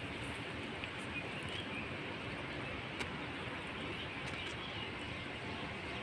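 Steady outdoor background hiss with faint bird calls twice, and a single sharp click about three seconds in.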